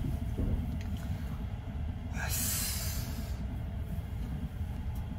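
Steady low rumble of the 285-series Sunrise Izumo/Seto sleeper train running on the rails, heard inside a private compartment. A brief rushing hiss comes in about two seconds in and lasts about a second.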